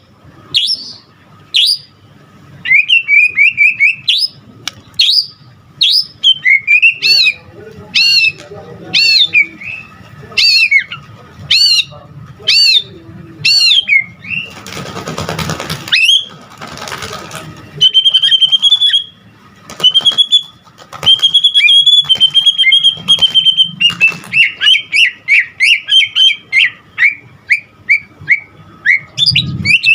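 White-rumped shama singing continuously at full volume, its song packed with mimicked calls. Loud whistled phrases and quick trills run throughout, broken by a harsh, noisy stretch about halfway through, then some long held high notes and a run of fast repeated notes.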